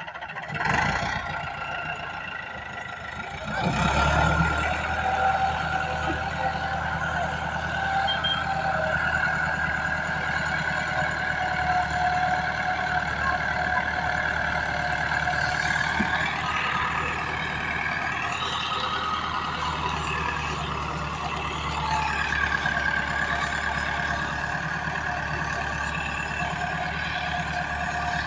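A 240-horsepower tractor's diesel engine running steadily, getting louder about four seconds in. A high whine rides over it and wavers in pitch in the second half.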